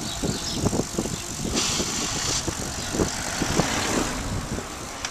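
Wind rushing over the microphone during a bicycle ride, with scattered knocks and rattles, and a brief hiss about a second and a half in.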